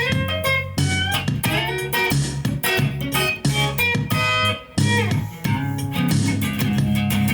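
Instrumental break in a swingy blues shuffle: a lead guitar plays a solo of single notes, several bent up and down in pitch, over a steady bass line.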